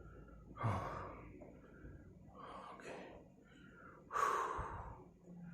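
A man's heavy breathing close to the microphone: two loud, hissing breaths, about half a second and about four seconds in, with fainter breaths between.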